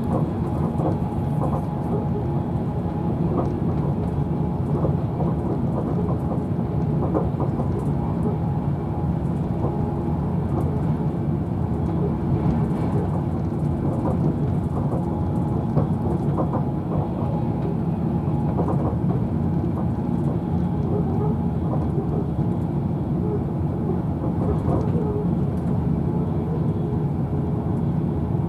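Class 390 Pendolino electric train running at speed, heard inside the passenger coach as a steady low rumble of wheels on rail, with faint scattered clicks.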